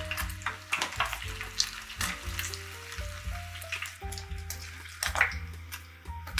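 Beaten egg frying in hot vegetable oil in a small saucepan: a steady sizzle with frequent sharp crackles as the egg browns and is turned. Background music with a bass line and melody plays along.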